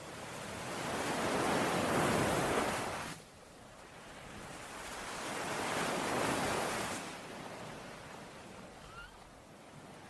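Ocean waves washing onto a shore in two swells: the first builds and cuts off suddenly about three seconds in, the second rises and slowly fades.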